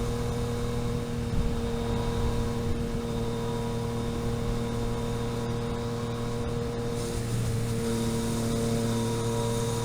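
Car engine idling steadily at an even pitch.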